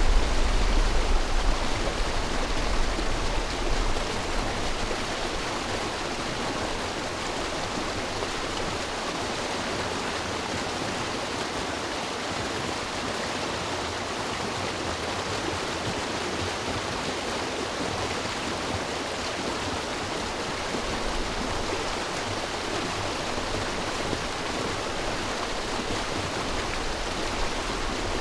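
River water rushing steadily, with a low rumble in the first few seconds.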